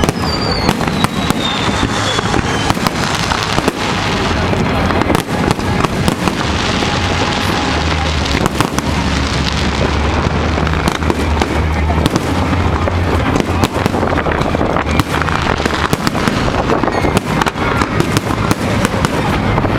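Fireworks barrage: rapid, overlapping bangs and crackling that go on without a break, with a falling whistle in the first couple of seconds.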